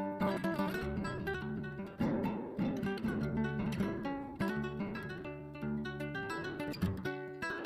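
Background music: acoustic guitar playing, plucked and strummed notes in a flamenco-like style.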